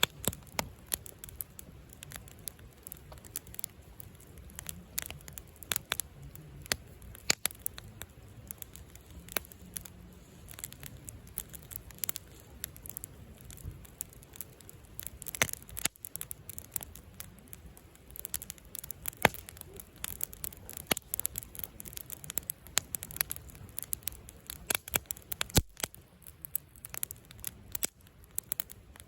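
Wood fire burning in a fire pit stand, crackling and popping irregularly with many sharp snaps over a low steady rumble of the flames.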